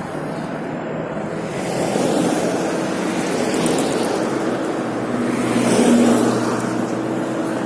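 Motorbike ridden through city traffic: the engine runs steadily under wind and road noise, which swells twice, about two seconds and six seconds in.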